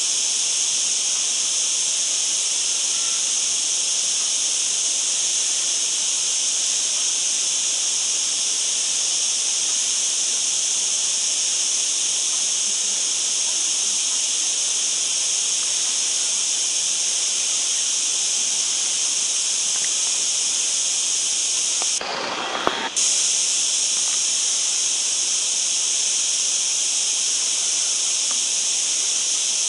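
A dense, steady chorus of insects, a continuous high-pitched shrill buzz. About three-quarters of the way through it drops out for about a second with a click, then comes back.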